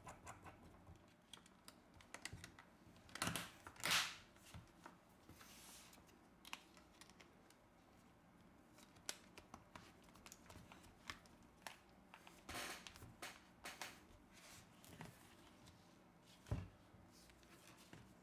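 Faint, scattered small clicks and taps of phone parts and small tools being handled while a phone is put back together. The clicks come irregularly, and the loudest are a few seconds in and near the end.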